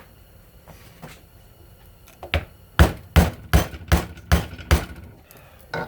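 A hammer struck about six times in quick succession, sharp blows roughly two or three a second, after a lighter knock.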